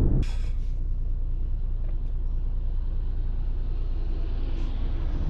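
A car driving, with a steady low road-and-engine rumble. A brief hissing burst comes right at the start.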